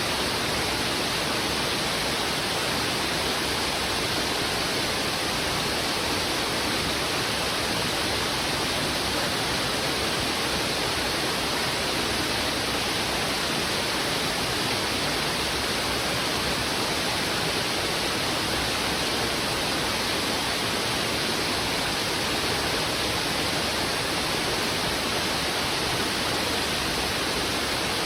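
Heavy river water rushing steadily over rocks: an even, unbroken hiss with no changes.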